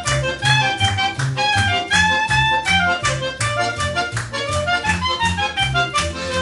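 Live instrumental music from an accordion, guitar and bass trio: the accordion carries the melody over a steady bass line of about two notes a second. Near the end a rising slide leads into a held chord.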